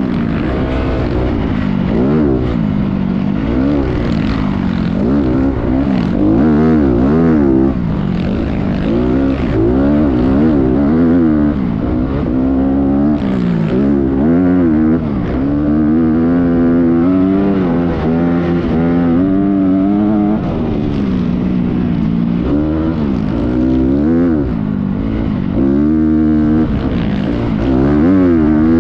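Motocross bike engine revving up and down over and over as it is ridden, its pitch climbing and dropping every second or two.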